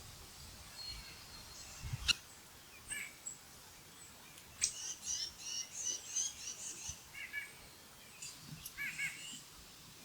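Birds chirping and calling in short, quick runs of high notes, busiest from about halfway through. A sharp click about two seconds in.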